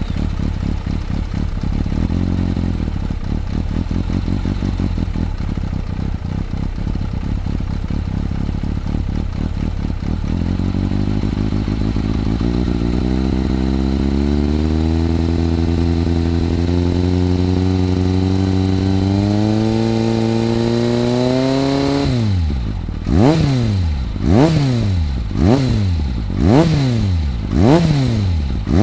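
Kawasaki ZRX400's four-cylinder engine through a BEET slip-on muffler. It idles steadily at first, then its revs climb slowly for about twelve seconds. Near the end the throttle is blipped about six times, each rev rising and dropping quickly.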